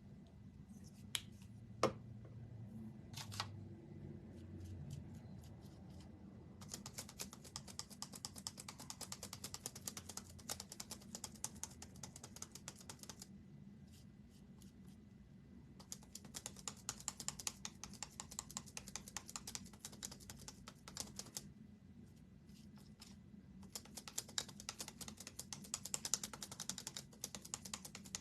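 Typing on a computer keyboard: three runs of rapid key clicks, each several seconds long, with a few single clicks at the start.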